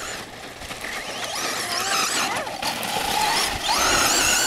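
Brushless electric motor and drivetrain of a Duratrax Evader RC monster truck whining, the pitch gliding up and down as the throttle is worked, growing louder about a second in.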